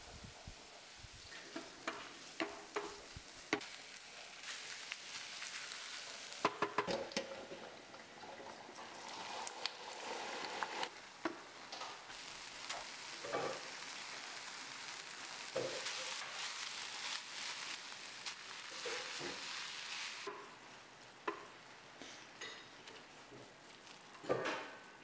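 Chopped onion, ginger and minced chicken sizzling in oil in a frying pan, stirred with a wooden spoon that knocks and scrapes against the pan again and again. The sizzle quietens about three-quarters of the way through, and near the end diced potato lands in the pan with a soft clatter.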